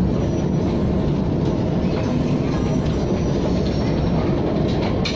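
KTM ETS electric train running: a steady, even low rumble.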